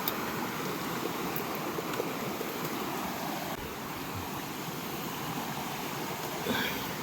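Steady rushing of flowing river water, with a few faint knocks and a brief louder sound near the end.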